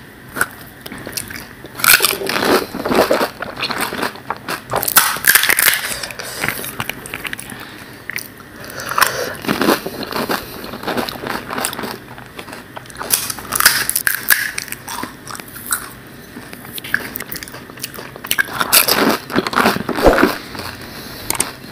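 Crisp fuchka (panipuri) shells being bitten, crunched and chewed close to the microphone, in crackling bursts every few seconds.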